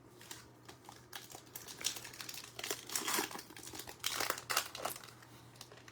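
Plastic trading-card pack wrappers crinkling and rustling in the hands, in irregular bursts, as a pack is opened and handled.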